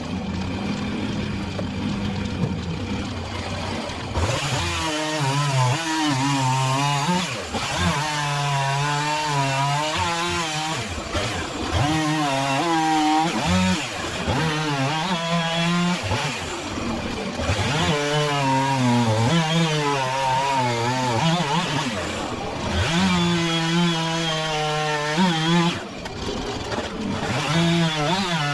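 Chainsaw cutting up small ash logs, its engine revving up and dropping in pitch again and again as it goes through one cut after another.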